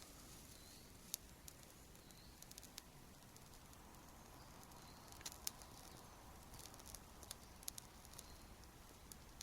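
Faint, scattered crackles from a just-lit hay tinder bundle with fatwood starting to catch, over near silence.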